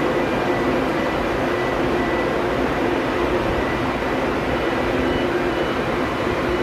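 Steady rushing roar of water flooding into a drydock, with a low hum running through it.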